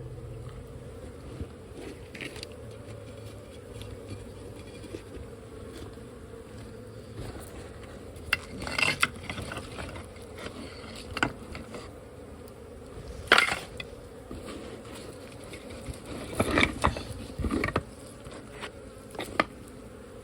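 Honeybees buzzing steadily around an opened colony, with scattered sharp knocks and clinks from work on the hive; the loudest knock comes about two thirds of the way through.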